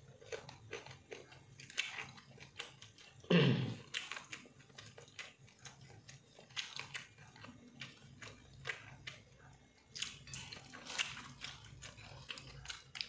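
Close-up sounds of a person eating with their hands: mouth chewing and biting, with many short, irregular crunches and wet smacks. One louder, deeper thump comes about three and a half seconds in.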